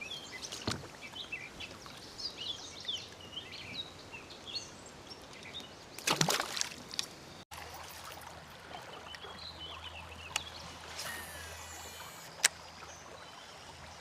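Birds chirping over a faint steady wash of water noise, with a short louder rush of noise about six seconds in and a single sharp click near the end.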